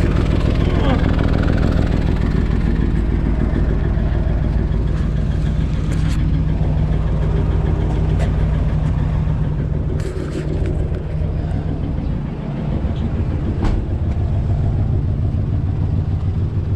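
A work truck's engine running steadily with a low drone, which eases off briefly about two-thirds of the way through, and a few short clicks.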